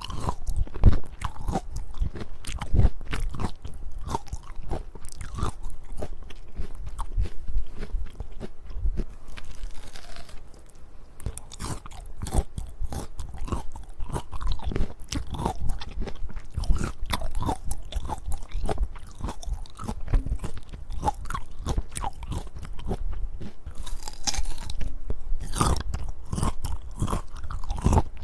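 Someone biting into and chewing a peach, a dense, irregular run of crunches throughout, with a few stronger bites near the end.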